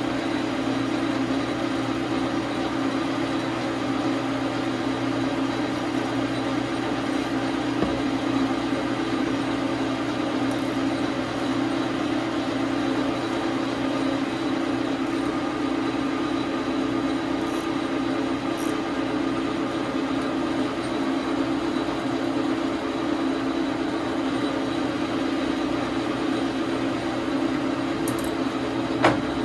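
Dar Sin 12 x 37 manual lathe running steadily with an even hum, with a sharp click near the end.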